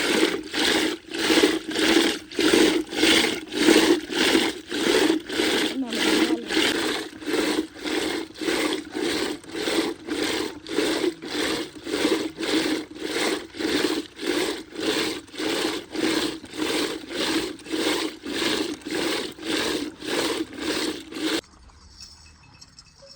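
Rhythmic back-and-forth rubbing or scraping, about one and a half strokes a second, steady and loud, that stops abruptly near the end.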